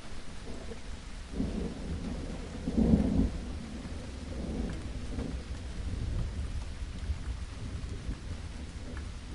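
Steady rain with rolling thunder; a deep rumble swells about a second and a half in, peaks in a loud crack-like surge around three seconds, then settles back into a low rolling grumble under the rain.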